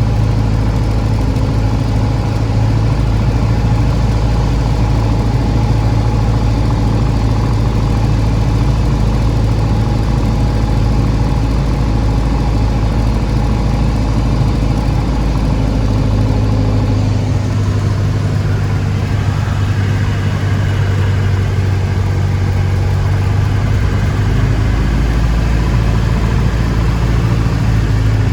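Cessna light aircraft's piston engine and propeller droning steadily, heard from inside the cabin. The low hum shifts a little about seventeen seconds in.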